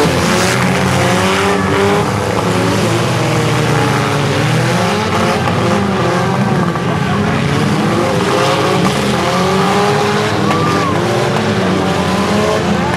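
Engines of several compact demolition-derby cars revving at once on a figure-8 track. Their pitches rise and fall over one another in a steady din.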